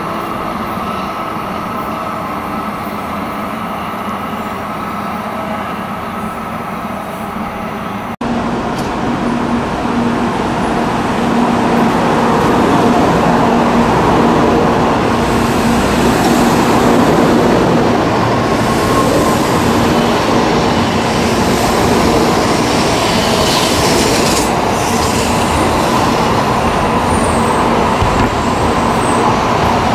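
N700-series Shinkansen train running as it pulls out of the station, a continuous rail noise with a few steady tones. About eight seconds in the sound cuts abruptly to a louder take, which swells over a few seconds and then holds steady.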